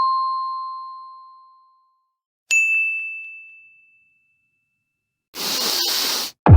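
A ding rings and fades away. About two and a half seconds in, a second, higher-pitched ding sounds and fades quickly. Near the end comes a steady burst of hiss lasting about a second.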